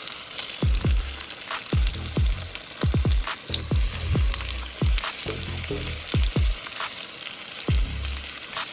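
Chicken tempura deep-frying in hot oil with a steady sizzle. Background music with a thumping, pairs-of-beats kick drum and bass line runs over it, and the beats are the loudest thing.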